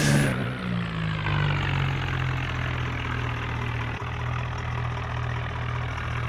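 Tractor diesel engine idling steadily, its revs dropping in the first second before settling.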